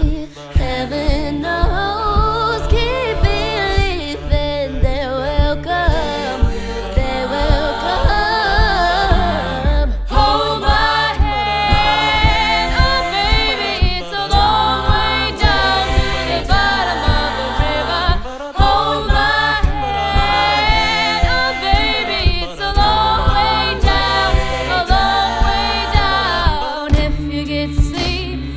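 Contemporary a cappella choir singing in several vocal parts over a low sung bass line, with vocal percussion keeping a steady beat.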